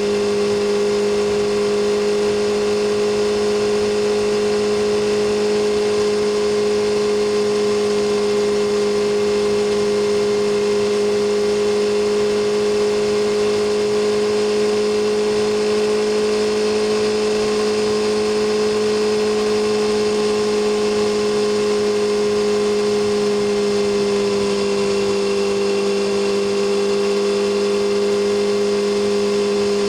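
BMW S1000RR inline-four sportbike engine and exhaust running at steady cruising revs, a constant engine note over a hiss of wind and road noise, the pitch easing slightly about three-quarters of the way through.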